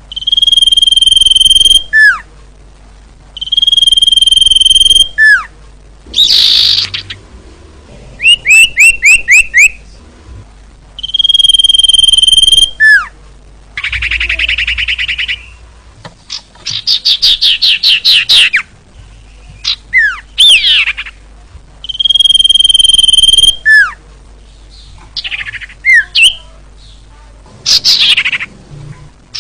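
Female common iora (cipoh) calling: loud, long, steady whistles of about a second and a half, each ending in a quick downward slur, given four times. Between them come clusters of short quick notes and a fast trill. It is the female's call, used to lure males.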